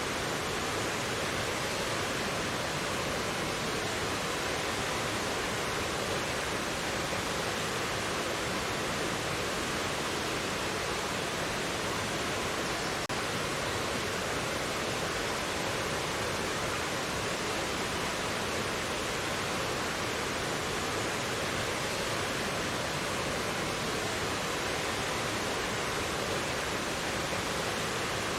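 Mountain valley stream rushing steadily over rocks, an even, unbroken wash of water.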